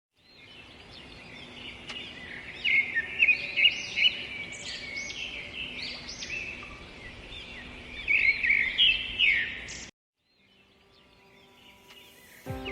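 Songbirds chirping and singing together in a dense chorus, with louder bursts of calls, cutting off suddenly about ten seconds in. Faint held tones then fade in.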